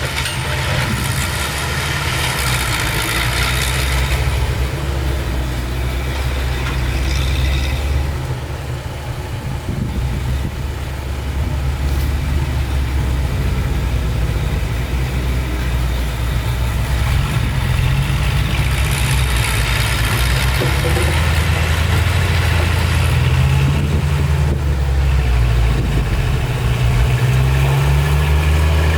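Heavy diesel engine of a construction vehicle running steadily with a low drone, dipping briefly partway through and revving up in the last few seconds.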